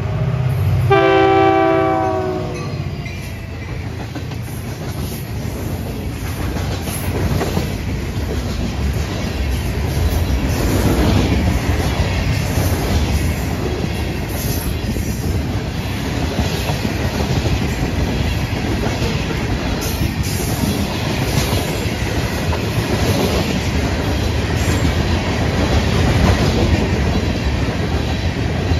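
Diesel freight locomotive horn chord, a short blast then a longer one ending about two and a half seconds in, then the locomotive rumbling past and a long string of freight cars rolling by, wheels clicking over the rail joints.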